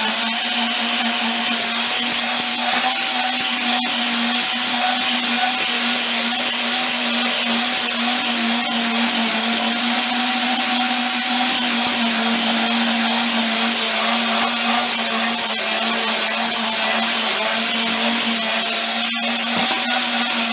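Electric power tool running steadily at constant speed, with a steady motor hum under an even hissing, abrasive noise from working against a surface.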